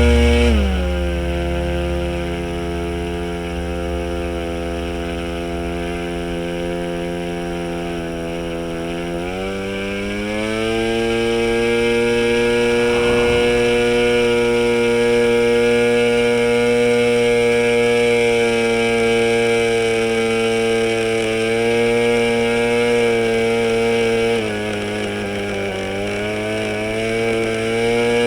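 O.S. 15LA model two-stroke engine converted to diesel, swinging a 10×6 propeller at full throttle with a high, buzzing run. Its speed drops sharply about a second in, holds lower, climbs back about ten seconds in, then sags once more near the end and recovers, the revs shifting as the compression and needle are being tuned for the best setting.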